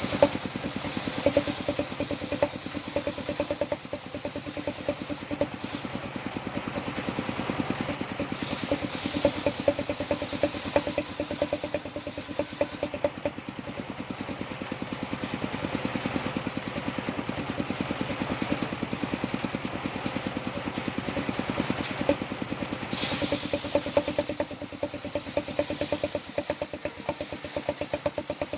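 Engine of a sawmill saw machine running steadily, with a rapid, even pulsing beat.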